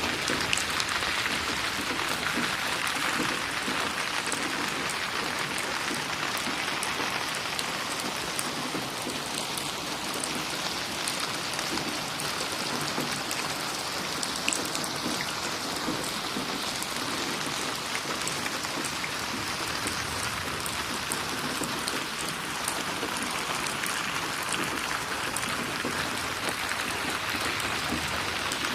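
Steady rain falling, with close drops splashing and pattering on a surface. No thunder.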